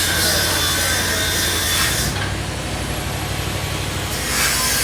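A motor-driven machine running steadily, with a rasping, sawing-like noise that stops about two seconds in and returns near the end.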